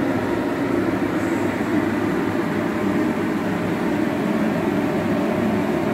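A 50,000–85,000 BTU propane jet heater with an electric fan, running with a steady, even rushing noise.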